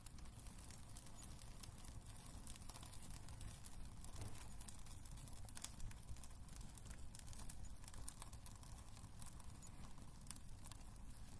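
Wood fire crackling in a fireplace: irregular small pops and snaps over a low steady rumble of the flames, with one louder pop about six seconds in.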